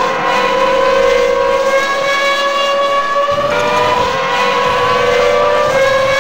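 Dubbed-in car engine sound effect: a high, steady engine note with many overtones that slowly sags in pitch and jumps back up twice, about halfway through and near the end.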